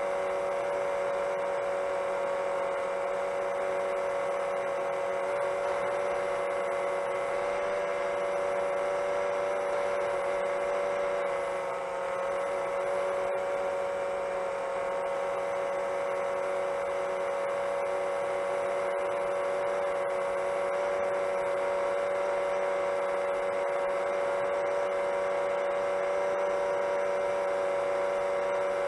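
Motors and propellers of a Chimera 7 LR long-range FPV quadcopter cruising in flight: a steady hum at one pitch that sags slightly about twelve seconds in.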